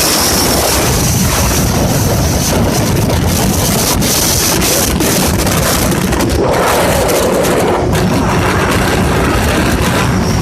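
Motorcycle running at highway speed, with heavy wind rushing over the microphone.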